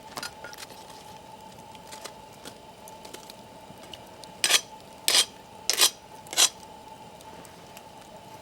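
Campfire crackling with small scattered pops, and four sharp clattering knocks in quick succession about halfway through.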